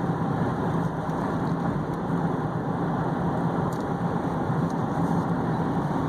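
Steady driving noise from a 2015 Chevy Equinox with the 2.4-litre four-cylinder: an even road and tyre rush with a constant engine hum underneath.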